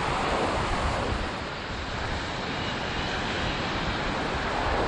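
Ocean surf washing onto the beach, with wind rumbling on the microphone: a steady rushing noise.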